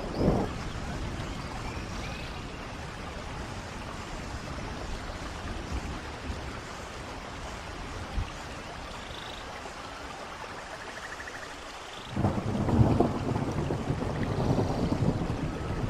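Steady rain with running water, an even hiss. About three quarters of the way in, a low, loud rumble of thunder sets in suddenly and rolls on.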